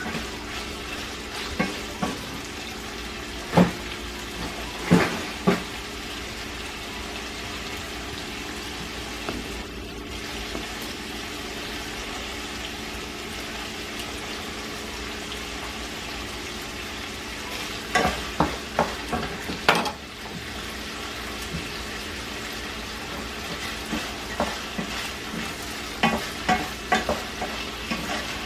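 Chicken chunks sizzling steadily as they fry in oil and butter in a pan. A utensil clicks and scrapes against the pan now and then, in a cluster about two-thirds of the way through and again near the end.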